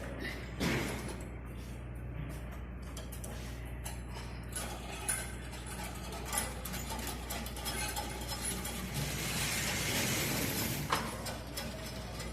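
Lifting gear hoisting a heavy ducted air-conditioner unit: a run of irregular metallic clicks and clinks, like a ratchet, over a steady low hum.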